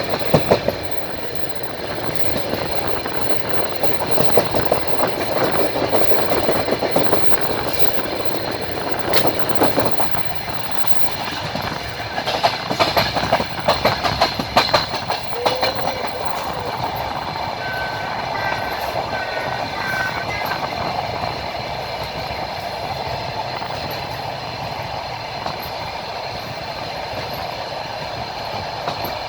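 Passenger train running, heard from a carriage window: steady rolling noise of the wheels, with a run of sharp clacks over the rail joints about halfway through.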